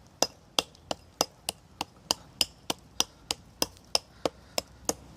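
Hand hatchet chopping into a very hard log in quick, evenly spaced strokes, about three a second.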